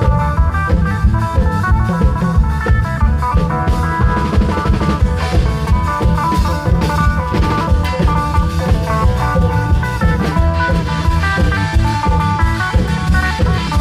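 Isan klong yao band playing: a dense, steady drum beat under a plucked melody line.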